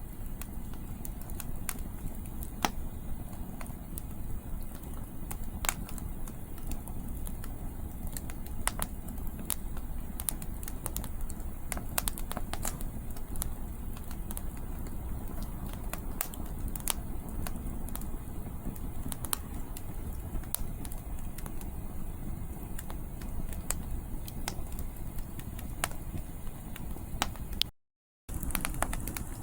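Firewood crackling in a campfire, with frequent short sharp pops, over a steady low rumble of wind on the microphone. The sound cuts out completely for about half a second near the end.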